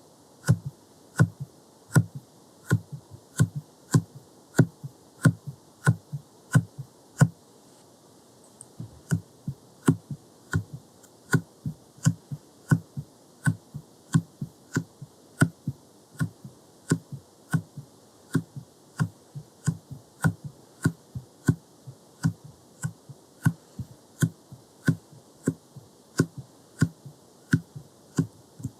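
Soft silicone jelly stamper dabbed repeatedly against the lens: a steady run of soft taps, each a dull thump with a light click, a little more than one a second, pausing briefly about eight seconds in.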